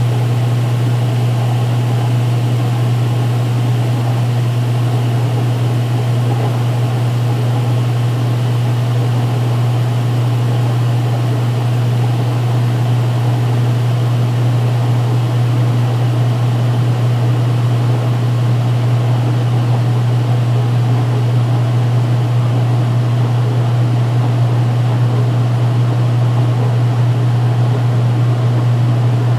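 2016 Speed Queen top-load washer spinning its load of towels and pumping out the pre-wash water: a steady, unbroken low motor hum with the rush of the spinning tub.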